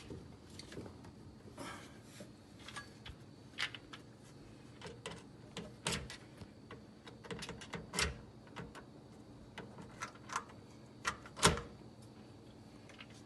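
Irregular clicks and knocks of a drain pipe being handled and fitted to a garbage disposal's outlet, with the loudest knock near the end.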